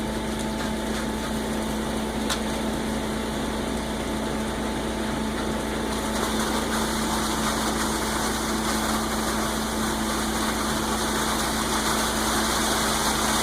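Concrete mixer truck's engine running steadily, with a held hum over a rushing noise that swells a little about halfway through.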